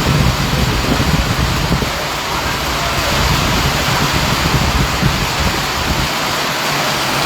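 Heavy rain pouring steadily, a dense even hiss that sounds like rain drumming on metal roof sheets. A low rumble underneath fades out about five seconds in.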